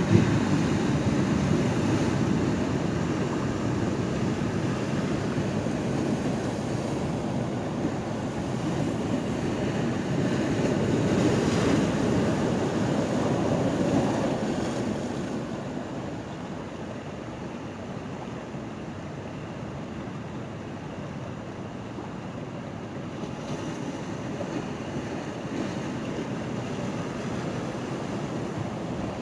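Sea waves washing and surging at a pier, rising to a loud rush twice, near the start and about halfway, then settling to a quieter wash, with some wind on the microphone.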